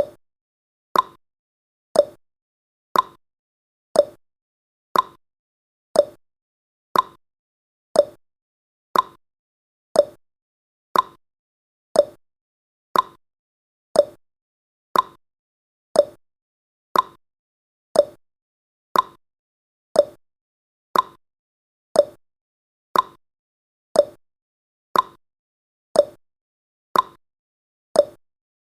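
Countdown timer's ticking sound effect: a short, sharp tick once every second, evenly spaced, each fading quickly into silence before the next.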